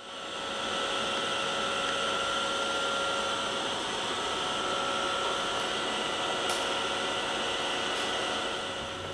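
Steady machine whirr with two faint constant tones running through it, one low and one higher, and no change in pitch.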